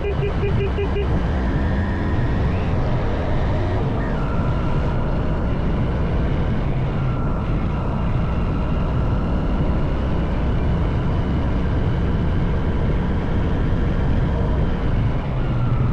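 Honda CB190R single-cylinder motorcycle engine running steadily under way, mixed with wind and road rumble. A rapid train of short beeps sounds through the first second.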